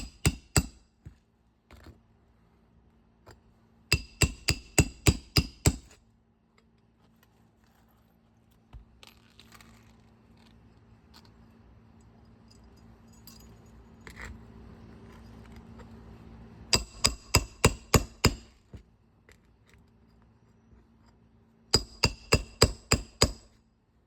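Roofing hammer striking a metal roof snake to drive nails in under a 3-tab asphalt shingle, in quick runs of about six to eight ringing blows with pauses between them.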